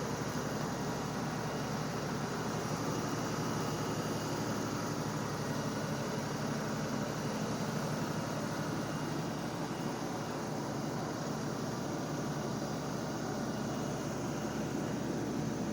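LS tractor's diesel engine running steadily.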